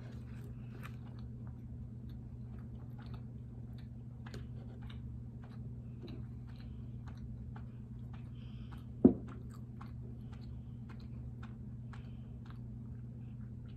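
Close-up chewing and small wet mouth clicks of people eating grapefruit segments and pastry, over a steady low hum. One sharp knock about nine seconds in is the loudest sound.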